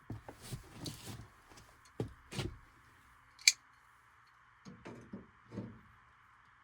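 Irregular knocks, clicks and rustles of hands and tools working on a gas furnace's sheet-metal panels and wiring, with one sharp click about three and a half seconds in. A steady faint hiss underneath.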